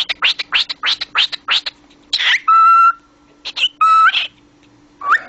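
Cockatiel calling: a quick run of sharp chirps, about five a second, then a short rising squawk and two held whistled notes about a second apart.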